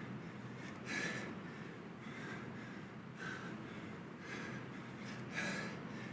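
A man breathing hard during a kettlebell interval set, with short forceful breaths about once a second, the strongest about a second in and again near the end.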